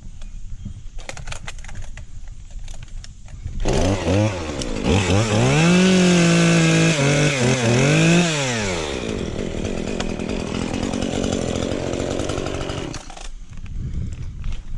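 Chainsaw revving up to a high, steady whine about four seconds in and held there with a few brief dips. It then falls away and runs lower for a few seconds before stopping near the end.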